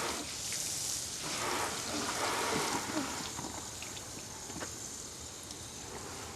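Water splashing and pattering during a car wash, louder for the first few seconds and then quieter, with small splashes throughout.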